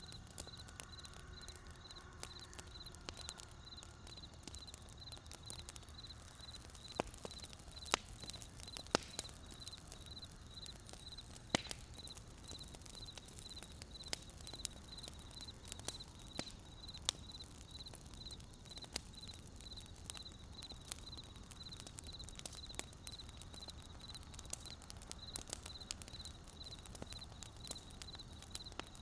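Wood burning in a campfire, crackling with irregular sharp pops, a few louder snaps among them, over a low steady rumble of the fire. A high, evenly pulsed chirping runs steadily underneath.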